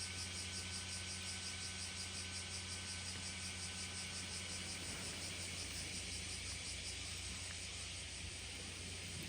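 Steady outdoor ambience: a constant low mechanical hum under an even hiss, with a rapid, regular high pulsing like insects chirping. The hum changes about five seconds in.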